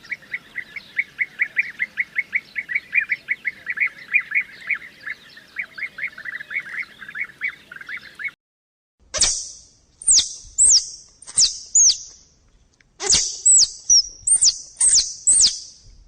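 Animal calls in two runs: first a fast series of short chirping calls, about four a second, for about eight seconds; then, after a brief pause, about eight high, downward-sliding whistled calls.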